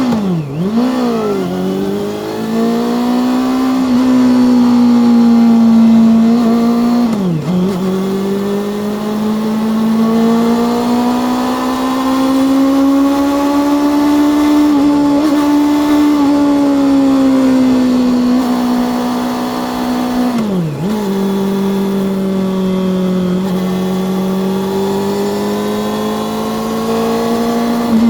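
Honda CB400 Super Four VTEC Revo's inline-four engine and exhaust under way, pitch rising and falling slowly with the throttle. The pitch dips sharply and recovers about a second in, about seven seconds in and about twenty seconds in.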